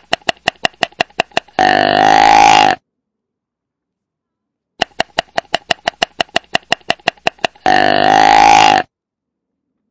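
Deer call played twice. Each time, a quick run of sharp clicks, about seven a second, leads into one loud call about a second long.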